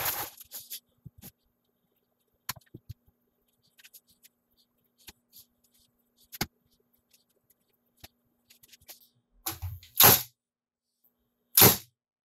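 Light knocks and clicks of wood pieces being handled and set in place, then two loud, sharp shots of a cordless narrow-crown stapler driving staples into plywood near the end, about a second and a half apart.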